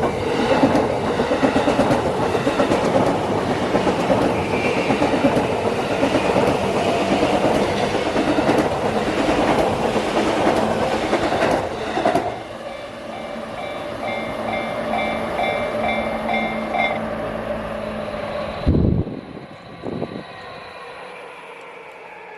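A Yamanote Line train runs over a level crossing with a dense rush of wheel and rail noise and clickety-clack, while the crossing's warning bell rings in an even repeating beat. The train noise drops away about twelve seconds in, leaving the bell ringing alone until it stops a few seconds later. Two dull thumps come near the end.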